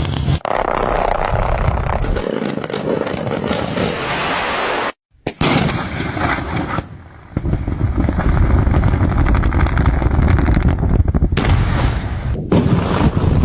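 Explosive rock blasting: booms followed by heavy rumble and the crackling clatter of flying and falling rock, in several blasts cut together, with a brief dropout about five seconds in.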